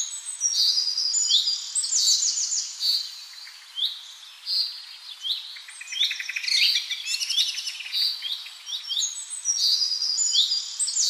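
Birds chirping and singing: short, high chirps repeated about every second, with a quick trill near the middle.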